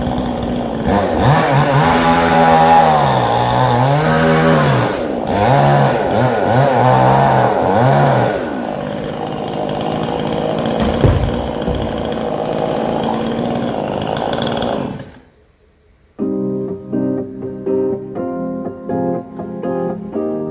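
Chainsaw cutting a coconut palm, its engine pitch rising and falling again and again as it is revved under load. About 15 seconds in it cuts off suddenly, and after a short gap keyboard music begins.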